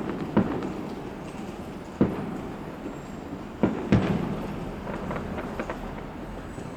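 Fireworks going off: about five sharp bangs in the first four seconds, each followed by a rolling echo, then a few lighter crackling pops about five seconds in.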